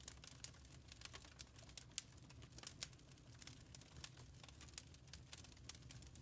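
Wood fire crackling softly: irregular small snaps and pops, a few sharper ones, over a low steady rumble.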